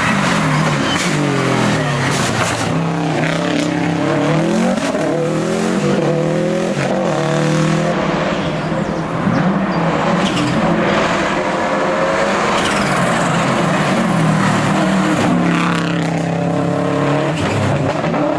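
Historic rally car engine revving hard on a special stage, its pitch climbing and dropping over and over as it accelerates, shifts and lifts off.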